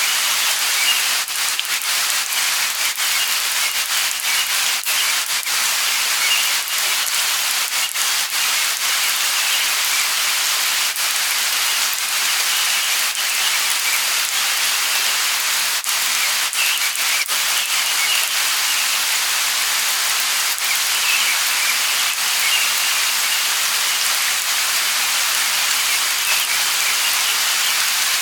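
Light rain falling steadily, an even hiss with scattered sharp ticks of drops hitting nearby surfaces, and faint high bird chirps now and then in the background.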